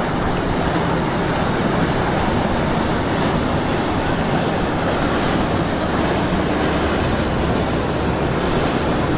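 Steady rush of rough waves and wind, with the low hum of boat engines running underneath.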